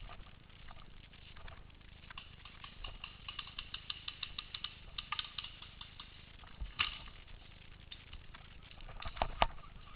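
Irregular sharp clicks and snaps: a fast run of them in the middle, a louder snap about seven seconds in, and a loud cluster near the end.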